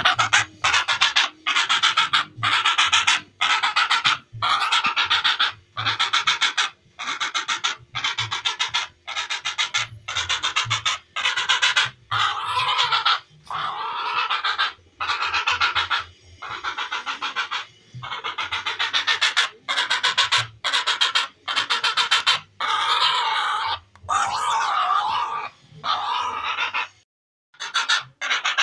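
Herons calling: a long run of harsh, rasping calls, each a rapid rattle of pulses lasting about a second, following one another with short gaps, with a brief pause near the end.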